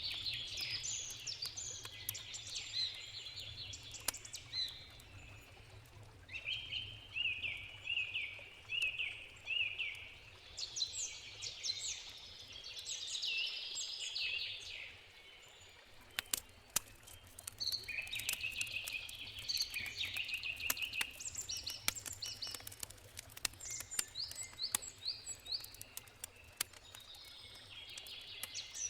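Songbirds singing in bursts of quick repeated notes, over sharp crackles and pops from a campfire and a steady low background rush.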